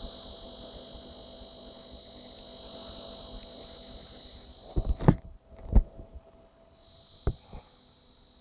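HP Pavilion dv7t-3300 laptop making a steady high-pitched buzzing whine while it freezes. The whine stops about halfway through, then a few loud knocks and clicks follow, and it comes back fainter near the end.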